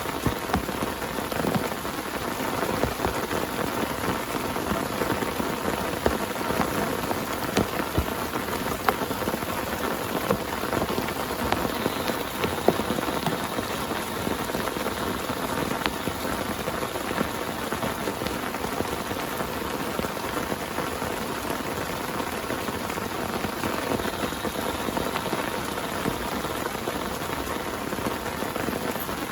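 Heavy rain falling steadily on a tent, with many individual drops striking sharply against the fabric.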